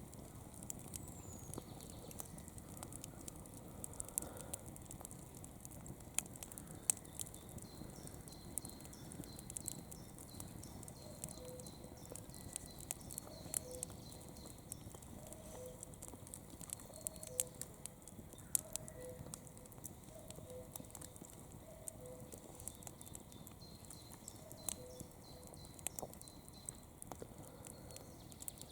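Campfire burning with a steady low hiss and frequent sharp crackles and pops of the burning wood.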